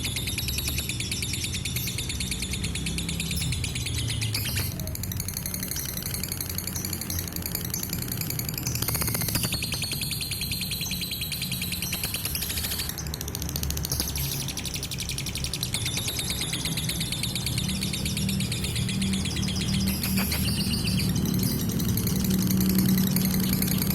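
Lovebird singing a long, unbroken run of fast, high-pitched chattering, with a steady low hum underneath.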